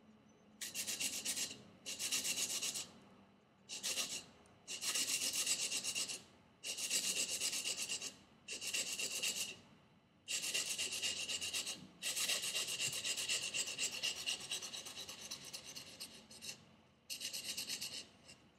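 Knife blade being drawn over sandpaper backed by a leather strop, a dry scratchy rasping in runs of quick strokes with short pauses between, sanding a convex edge onto the blade.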